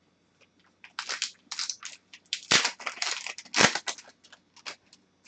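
Plastic wrapper of a pack of hockey cards crinkling and crackling in the hands, in irregular bursts starting about a second in.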